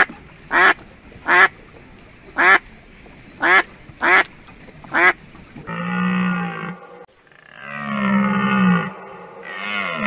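Mallard duck quacking, seven short, sharp quacks over about five seconds. Then mouflon (wild sheep) calling in three long, low bleats.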